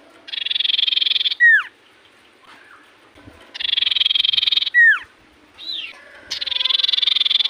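Cipoh (iora) singing: three loud, buzzy trills of rapid notes, each about a second long. The first two are each followed by a sharp whistle sliding down in pitch.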